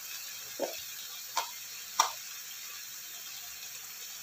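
Beef, eggplant and lettuce frying quietly in a wok, a steady soft sizzle, with three short clicks about half a second, a second and a half, and two seconds in, the last the sharpest.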